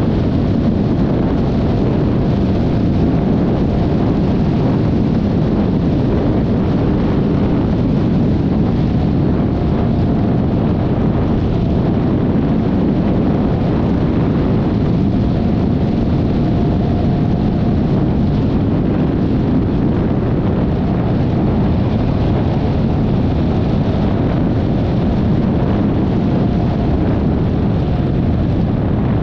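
Steady riding noise from a Yamaha XMAX 300 scooter under way: wind rushing over the action camera's microphone, with the engine running underneath and a faint steady whine.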